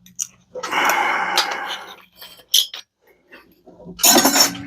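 Metal parts clinking and scraping while a microwave magnetron is dismantled by hand. There is a longer scrape near the start, a few sharp clicks, and a louder rattle near the end.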